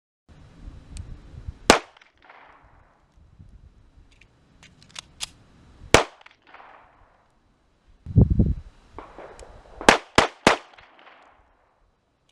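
Gunshots with an echo after each: a single shot, another about four seconds later, then three quick shots about a third of a second apart near the end. Fainter sharp cracks between the first two shots, and a short low rumble just before the final volley.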